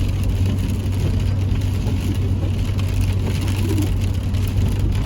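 Steady cabin noise of a car driving on a wet, salted road: engine and tyre noise with a constant low drone.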